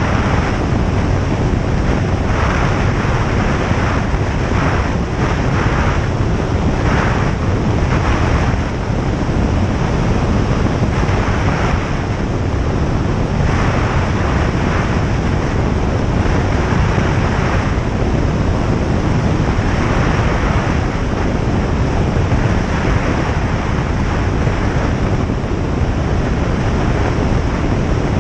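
Single-engine light aircraft's piston engine and propeller running steadily in flight, with rushing airflow, heard from inside the cabin.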